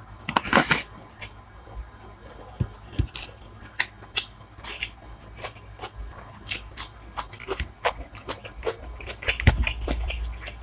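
A person chewing and biting food close to the microphone: irregular crisp crunches and clicks, with a louder crunch about half a second in and another near the end.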